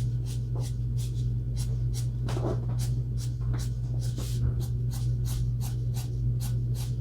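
Alcohol marker tip stroking over paper in short, repeated strokes, about three a second, over a steady low hum.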